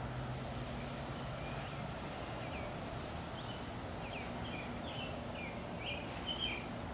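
Small birds chirping, a run of short quick calls that comes more often in the second half, over steady outdoor background noise.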